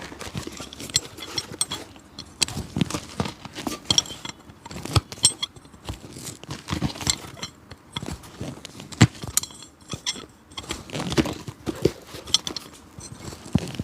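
A cobbler working on an old leather shoe by hand: irregular taps, clicks and scrapes of tools on the shoe and sole, a few sharper knocks among them.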